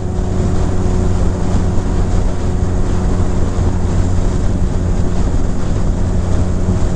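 Honda Rebel 250's air-cooled parallel-twin engine running steadily at cruising speed, with wind rushing over the microphone.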